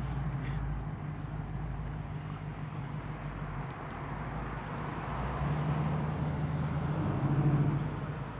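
A car engine running at low revs as a car rolls slowly past. It grows louder about five seconds in and eases off near the end.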